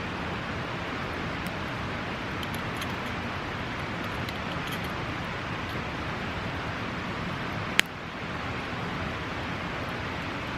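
Campfire crackling, with a few faint sharp pops and one loud snap about eight seconds in, over a steady rushing noise.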